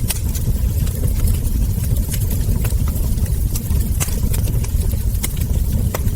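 Wood fire crackling: sharp, irregular pops and crackles from the burning logs and embers, roughly two a second, over a steady low rumble.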